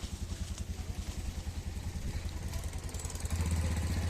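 A vehicle engine idling with a steady, rapid low throb, growing louder about three seconds in.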